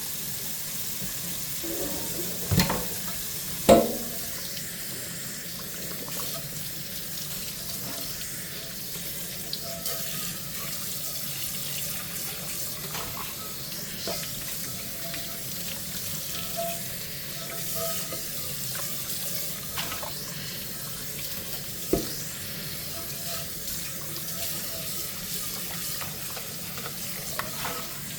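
Tap water running into a kitchen sink during hand dishwashing, a steady hiss, with dishes clinking and knocking now and then. The loudest knocks come twice a few seconds in and once about two-thirds of the way through.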